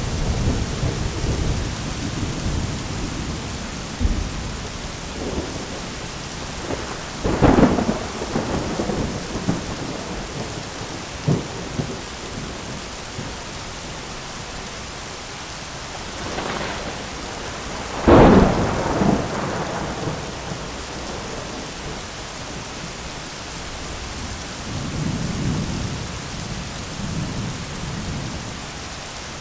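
Thunderstorm: steady heavy rain with thunder. Sharp claps come about 7 seconds in and, loudest of all, about 18 seconds in, with lower rolling rumbles near the start and again near the end.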